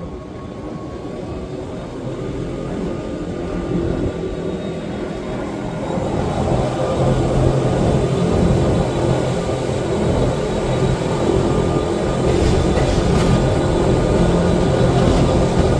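Wengernalpbahn rack-railway train running, a steady rumble of wheels and motors that grows louder about six seconds in.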